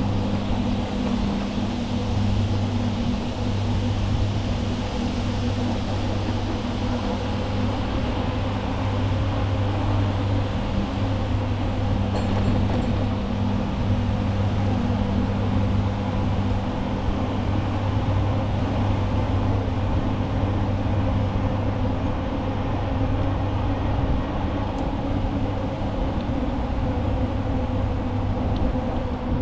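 A steady low mechanical hum holding one pitch, over a constant rushing noise.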